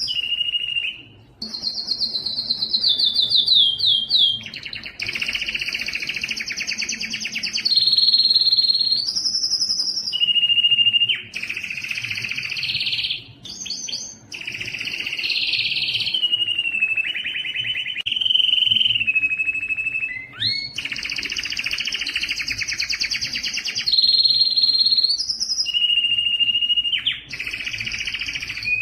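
Spanish timbrado canary singing a continuous song of fast rolling trills, changing from one trill to the next every few seconds, with a few brief pauses.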